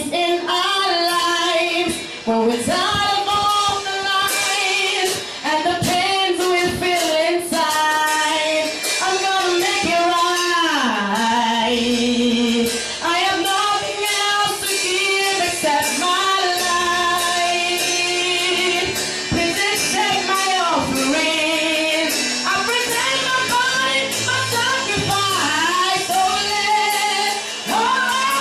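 Gospel worship song: singing, mostly a woman's voice, over instrumental accompaniment, with held and sliding notes.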